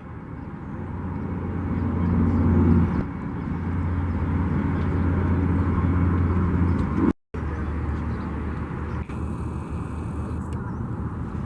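A boat motor running steadily with a low hum, cut off by a brief total dropout about seven seconds in.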